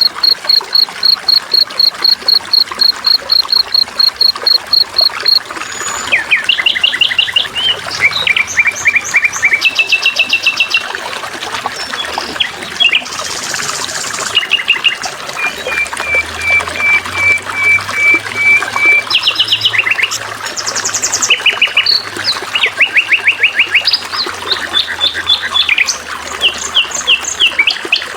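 Songbirds singing: a high note repeated evenly about four or five times a second for the first five seconds, then a quick succession of different rapid trills and chirp series, over a steady trickle of running water.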